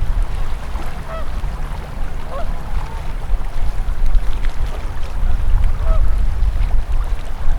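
Steady rush of a river in winter, heavy in the low end, with short waterfowl calls sounding over it several times.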